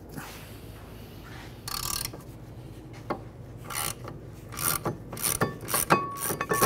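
A short scrape of a socket tool about two seconds in, then a hand ratchet clicking in short back-and-forth strokes, the clicks coming a few per second and getting louder through the second half, as a 14 mm caliper bracket bolt is being loosened.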